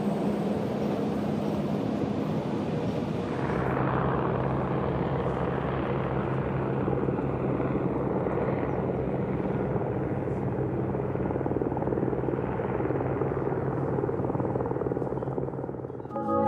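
Steady vehicle motor noise with a low hum; about three and a half seconds in the sound cuts to a slightly different, lower steady hum.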